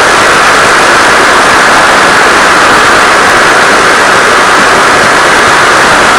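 Steady, loud hiss of noise with no breaks and no clear pitch, strongest in the upper-middle range.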